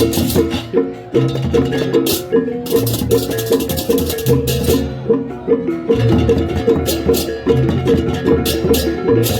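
Balinese gamelan music, likely a baleganjur processional ensemble: tuned gongs ring a fast repeating figure over low gong and drum strokes, with repeated crashes of small cymbals.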